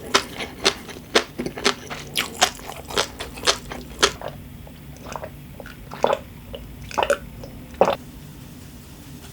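Close-miked mouth eating sounds: quick crunchy chewing, about two bites a second, for the first four seconds or so. It then slows to a few soft wet squishes and stops about eight seconds in.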